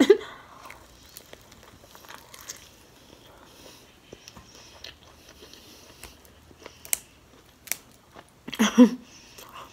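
Close-miked chewing of a bite of fried shrimp egg roll: soft crunches and wet mouth sounds, with a few sharp clicks near the end.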